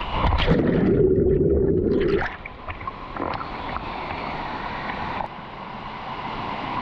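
Steady rush of a mountain river. For about two seconds near the start, a loud, muffled gurgling of water sits over it, with the higher sounds cut away.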